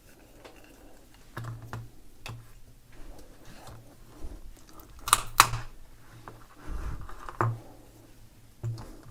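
Scattered metallic clicks and knocks as a bicycle lock is handled and worked on in a strength test, with a sharper knock about five seconds in and another near seven and a half seconds.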